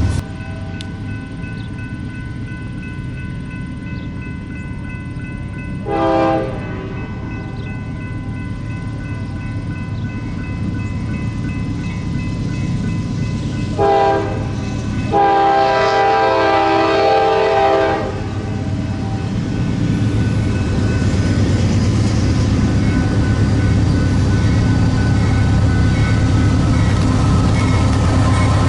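Train locomotive horn sounding three times over a steady rumble of the train: a short blast about six seconds in, another short one near the middle, then a longer blast of about three seconds. The rumble of the train grows louder toward the end as it comes closer.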